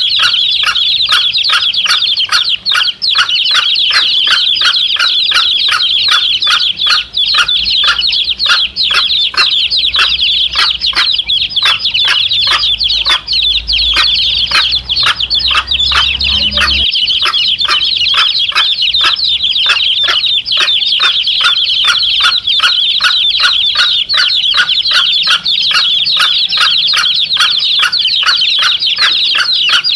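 A brood of domestic chicks peeping constantly in high, overlapping calls, with a hen clucking over them in a steady run of about three to four clucks a second. A low rumble underneath stops suddenly a little past halfway.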